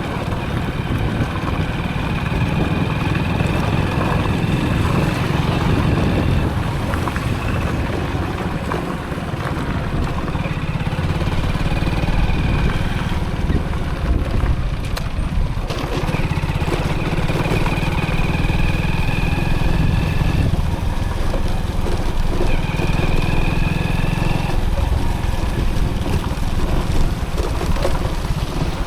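Motorcycle engine running while riding, a steady low rumble with a faint high whine that comes and goes in stretches of a few seconds.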